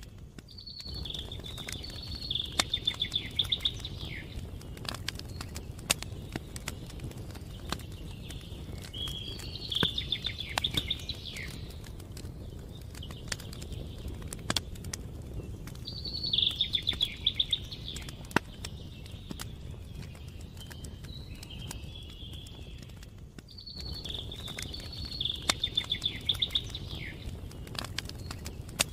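A songbird sings the same short phrase four times, about every seven seconds, each time ending in a rapid trill. Between the phrases a campfire crackles with scattered sharp pops over a steady low rumble.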